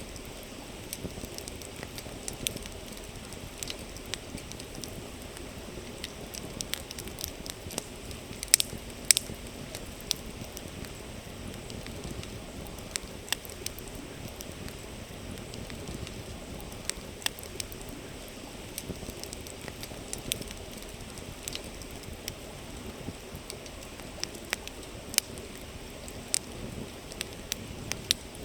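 Campfire crackling, with irregular sharp pops, two of them loud a little over a third of the way in, over the steady rush of a flowing river.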